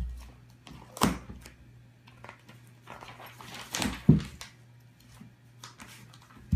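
A house cat pawing at a magazine, making a few sharp thumps and paper rustles. About four seconds in there are a couple of short animal cries that fall in pitch.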